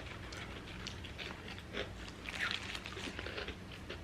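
Close-up chewing and biting of In-N-Out burgers and crispy fries: soft scattered crunches and mouth clicks, with a louder crackle a little past halfway.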